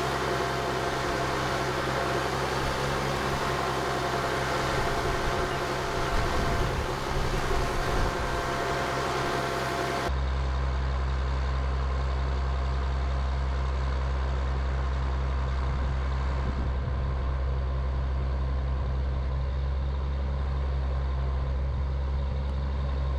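A truck engine running steadily at idle, a low, even hum. About ten seconds in the sound changes abruptly: the hiss drops away and the deep hum gets stronger.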